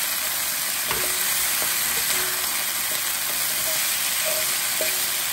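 Marinated prawns frying in hot oil in a stainless steel pan, a steady sizzle, as a wooden spatula stirs them.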